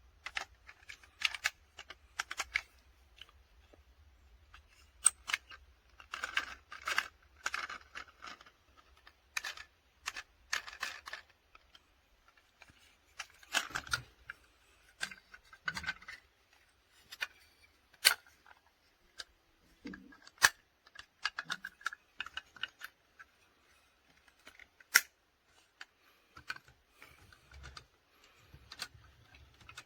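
Irregular light clicks, taps and small clatters from small hard objects being handled, coming in loose clusters with short pauses between them.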